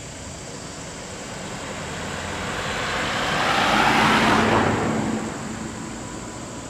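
A motor vehicle passing close by, its noise swelling to a peak about four seconds in and then fading away.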